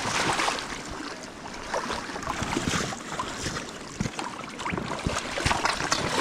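River water flowing, with irregular splashes and knocks throughout.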